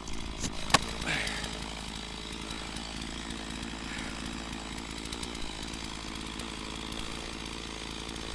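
Stihl MS460 two-stroke chainsaw running steadily. A single sharp knock sounds about a second in.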